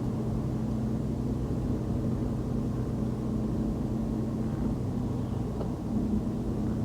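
A car driving on a city road: steady low rumble of engine and tyres, with a steady low hum.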